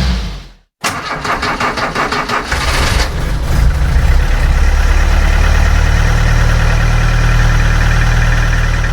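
Engine cranking with rapid even pulses, catching about three seconds in and then running steadily at idle.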